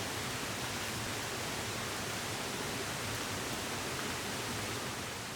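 Steady, even rushing noise with no distinct events, fading away near the end.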